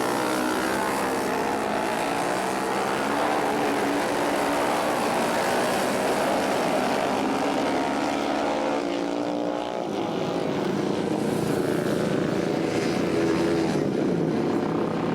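Several flat-track racing motorcycles running hard, their overlapping engine notes rising and falling as the bikes accelerate and back off around the track.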